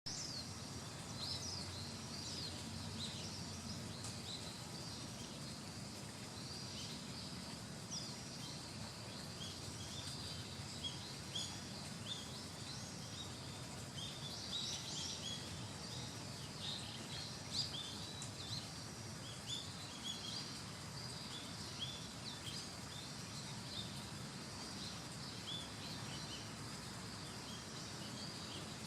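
Many short, high bird chirps and calls scattered throughout, over a steady low outdoor background hum.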